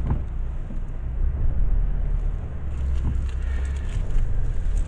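Ford Ka III driving, heard from inside the cabin: a steady low engine and road rumble. This is a test drive to check for a front-left rattle after a new brake pad clip and pin were fitted.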